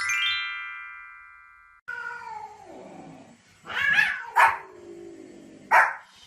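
A descending run of bell-like chime tones rings out, then cuts off abruptly. Then a dog gives a drawn-out whine that falls in pitch, followed by a few sharp barks.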